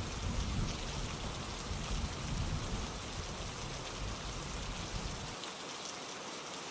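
Steady rainfall, an even hiss of many drops with fine pattering ticks. A low rumble beneath it stops suddenly about five seconds in.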